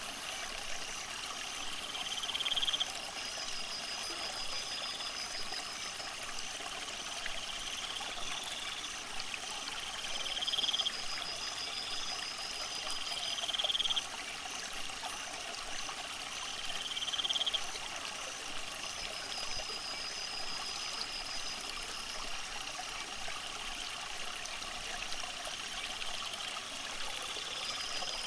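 Water trickling steadily under a chorus of calling animals: a buzzing call that rises and stops abruptly every three to four seconds, over steady high pulsing trills.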